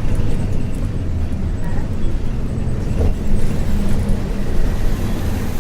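Isuzu 6QB2 diesel engine of a 1994 Isuzu U-LV224N route bus running steadily under way, heard from inside the passenger cabin.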